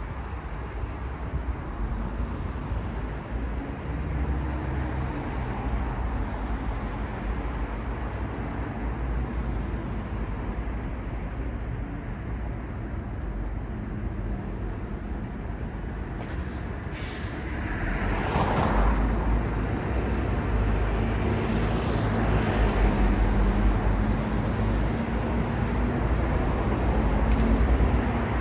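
City street traffic: motor vehicles running with a steady low rumble and engine hum. About two-thirds through comes a short sharp hiss, then a vehicle passes close and the traffic stays louder to the end.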